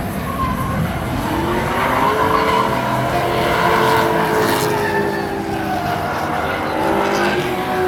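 Drift cars' engines revving through a drift, their pitch rising and falling, over the hiss and screech of sliding tyres.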